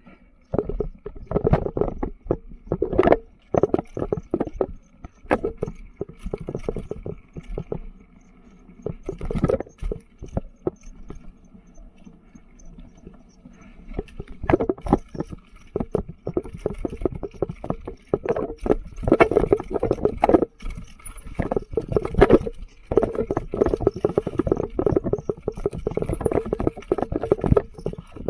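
Mountain bike rattling and clattering over a rough dirt trail, with an uneven run of knocks and tyre noise; it eases for a few seconds near the middle, then grows busy again.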